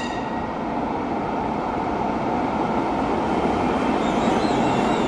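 A train running, a steady rumble of wheels and carriage noise.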